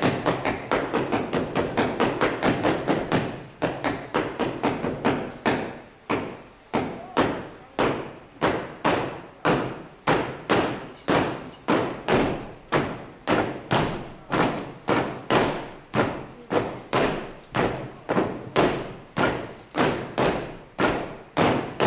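Wooden tool handles knocked in rhythm as improvised percussion: a fast flurry of knocks at first, then steady, evenly spaced strikes about two a second.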